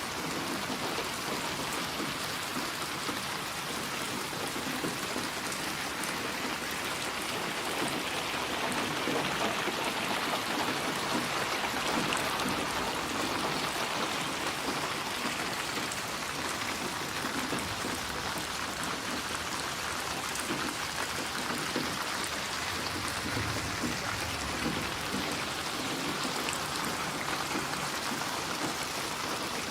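Steady rain falling, an even hiss with the patter of individual drops, swelling a little in intensity partway through.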